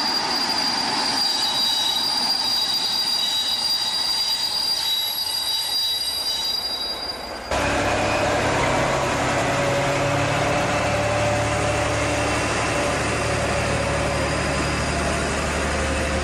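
Train sounds: a steady high-pitched wheel squeal over rolling noise, then, after a sudden cut about seven seconds in, a diesel railcar's engine running steadily with a low hum.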